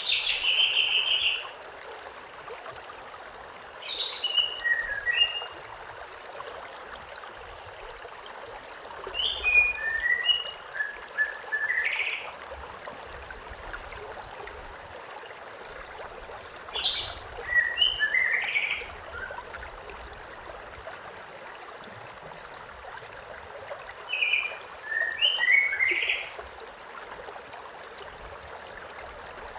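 Steady rushing of a river or stream, with a songbird singing five short phrases of quick high notes, a few seconds apart.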